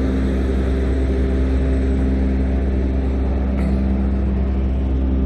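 An engine running steadily at one constant pitch, over a deep, even rumble.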